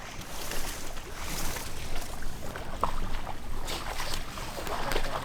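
Water sloshing and splashing in shallow floodwater, with a few brief knocks or rustles from about three seconds in.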